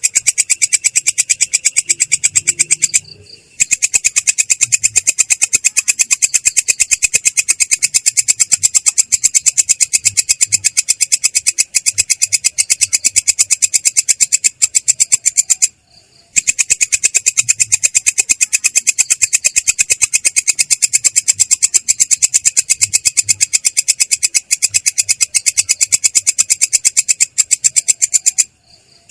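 Belalang kecek insect calling in a long, rolling trill: a fast, even, rough-sounding pulse, high-pitched, breaking off briefly about three seconds in, again around sixteen seconds, and just before the end.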